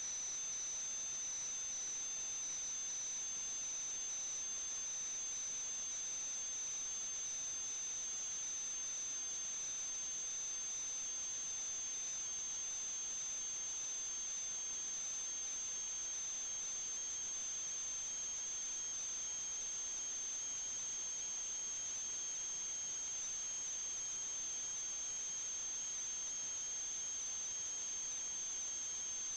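A steady high-pitched whine, one strong tone with a weaker lower one, held unchanged over a constant hiss.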